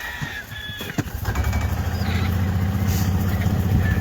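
A motor vehicle's engine starts about a second in, after a click, and runs with a low, steady drone that grows slightly louder.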